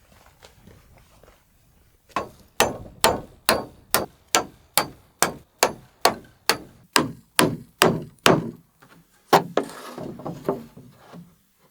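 Hammer striking: a fast, even run of blows, about three a second, then a short pause and a few slower blows near the end.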